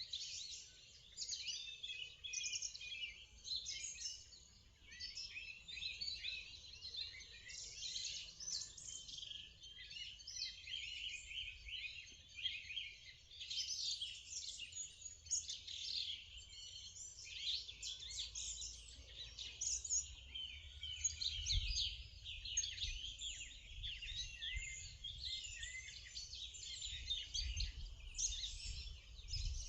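Morning chorus of many songbirds singing at once, with dense, overlapping chirps and trills. A few brief low rumbles come in the second half.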